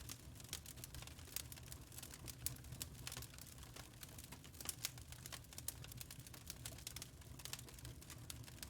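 Wood fire crackling: quick, irregular snaps and pops of burning logs over a steady low rumble of flames.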